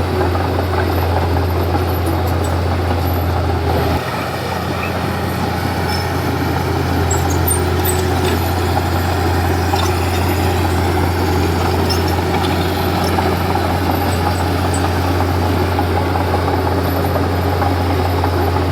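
Diesel engine of a Komatsu D31P bulldozer running steadily with a deep drone, the note dipping briefly about four seconds in before settling again, with light clinks over the top.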